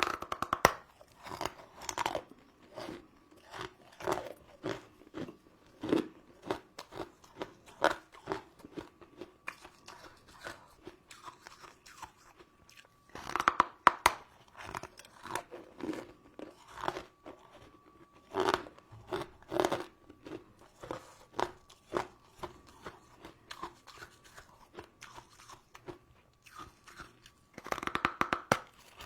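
Close-miked chewing and crunching of sugar-crusted crystal sweets: irregular crisp crunches, with denser flurries of biting now and then. A faint steady high tone hums underneath.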